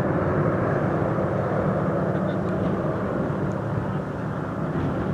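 Spitfires' V12 piston engines from a formation flypast, a steady drone that slowly fades as the aircraft pass.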